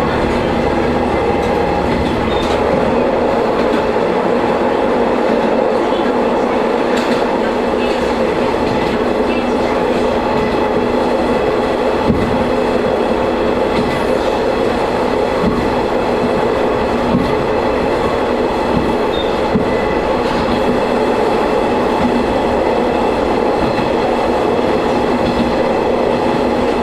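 Diesel railcar running steadily along the line, its engine giving a constant drone, with occasional clicks of the wheels over rail joints.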